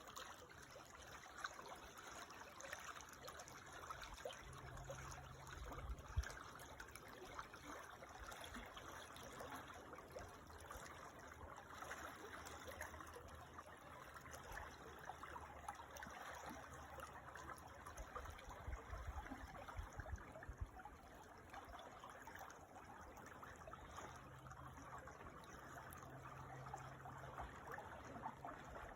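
Creek water trickling steadily, a soft even flow, with a faint low hum coming and going beneath it.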